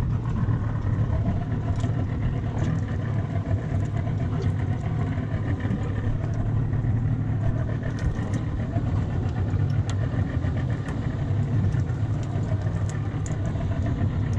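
Boat motor running steadily, a low, even drone.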